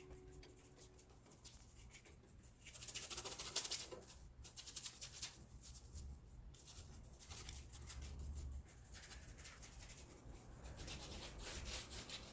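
Paintbrush loaded with acrylic paint scrubbing and stroking across watercolour paper: a series of irregular, scratchy rubbing strokes.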